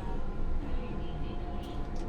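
Tram running, heard from inside the driver's cab: a steady low rumble, with a faint thin tone coming in near the end.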